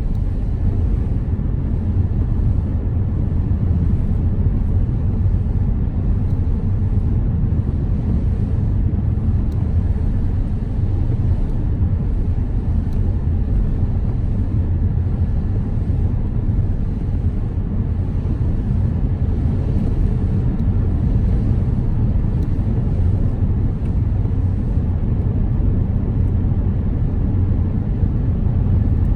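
Car driving at a steady speed: continuous low road and engine drone from the tyres and motor, with no change in pace.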